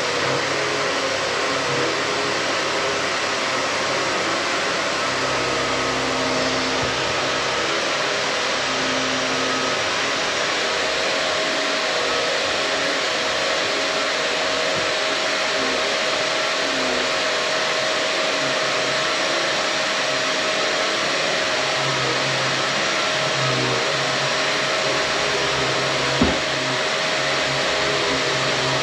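Bissell pet vacuum cleaner running steadily with a constant whine over its suction noise, its hose partly blocked. A single sharp knock near the end.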